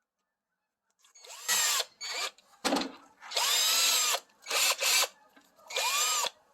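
Power drill run in about six short bursts, its motor whine rising and falling in pitch with each trigger pull, with a sharp knock in between. It is boring a hole through a cabbage so a rope can be threaded through it.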